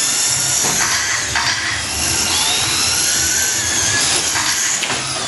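Several radio-controlled short course trucks racing, their motors whining in high overlapping pitches that rise and fall as they accelerate and slow through the course.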